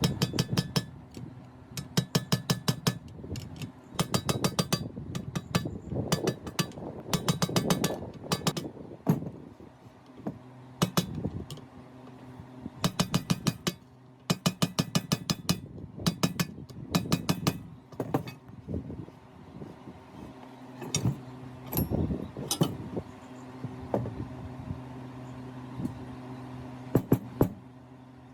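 Bursts of rapid, sharp metallic clicks, roughly a second each and repeated many times, from hand-tool work on the drill press's metal parts, over a steady low hum.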